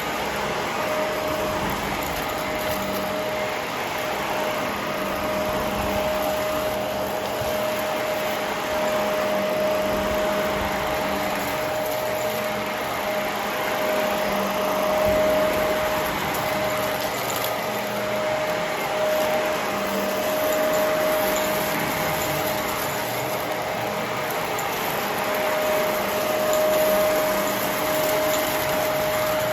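Vacuum cleaner running steadily, with a constant motor whine over its airflow noise and a level that swells and dips every few seconds.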